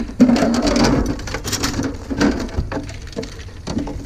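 Something being broken apart by hand: a rapid run of cracking, crunching and clattering knocks, loudest in the first second and a half.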